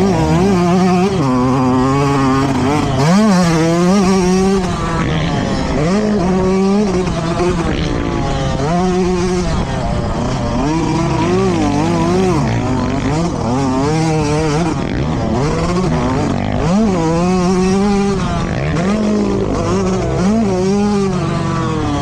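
Motocross bikes racing, their engines revving up and falling off again and again, about once every one to two seconds.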